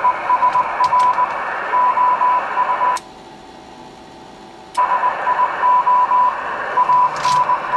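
Shortwave receiver audio from an Icom IC-718 HF transceiver: band static hiss with a Morse code signal, a single tone keying on and off in short and long elements. Hiss and tone cut out for about two seconds midway, then resume.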